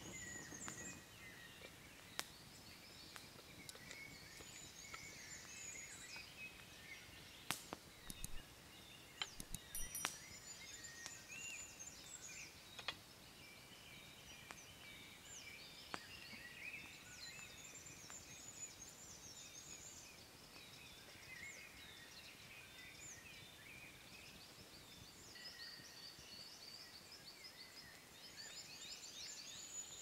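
Several songbirds singing faintly, with overlapping chirps and trills throughout. A handful of sharp clicks come about a quarter to a third of the way in.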